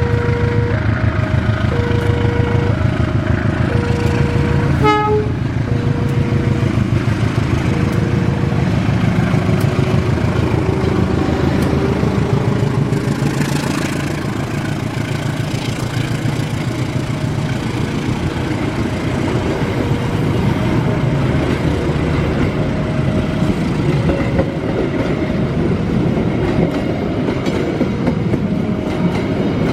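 A train running past with a heavy low rumble that eases about twelve seconds in, while a two-tone level-crossing warning alarm alternates about once a second. Near five seconds there is a brief sharp sound.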